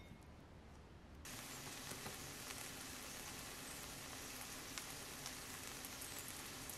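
Egg-coated zucchini rounds sizzling in hot oil in a frying pan: a steady hiss with many small crackling pops, starting abruptly a little over a second in.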